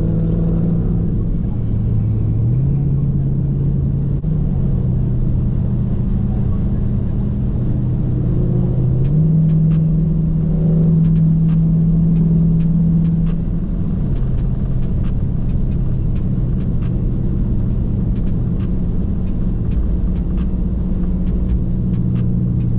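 Dodge Charger's V8 engine droning steadily while cruising, its pitch stepping up and down a few times as the throttle changes.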